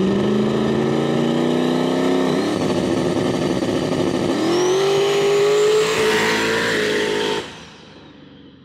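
Car engine at full throttle, pitch climbing, with a brief drop about two seconds in at a gear change, then climbing again through the next gear. A faint high whine rises with it, and the sound cuts off abruptly near the end.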